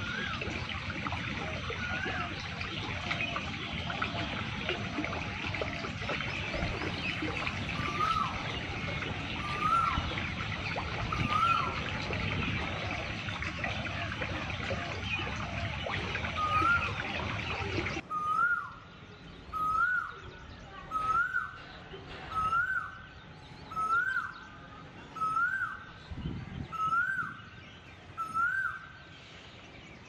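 A bird repeating one short call that rises and falls, about once every second and a half. For the first part it sits over a dense, steady background hiss of outdoor sound, which cuts off abruptly about two-thirds of the way in, leaving the calls alone.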